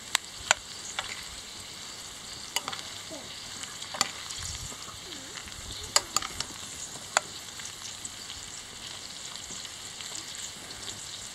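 Shredded cabbage, carrots and onion with pork frying in a steel pot with a steady sizzle, while a metal spoon stirs them and clinks against the pot about six times.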